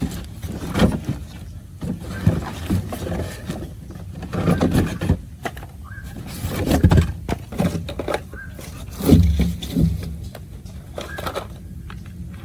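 Irregular scraping and knocking, in a series of uneven bursts with a few sharper strikes.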